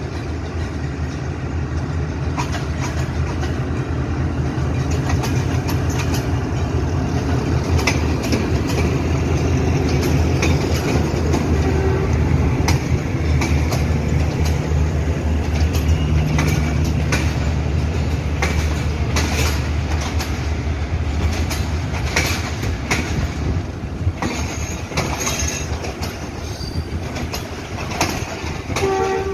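Diesel locomotive and its passenger coaches passing close by. The engine's low rumble fades away about two-thirds of the way through, while the coaches' wheels clack steadily over the rail joints.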